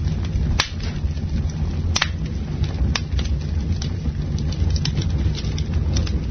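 Campfire burning with a steady low rumble, broken by irregular sharp crackles and pops of burning wood, the loudest about half a second, two and three seconds in.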